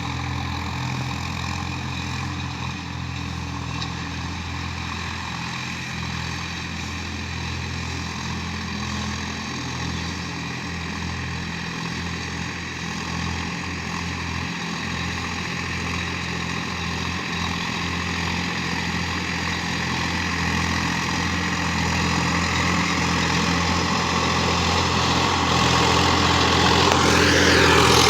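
Sonalika tractor's diesel engine running steadily, growing louder toward the end.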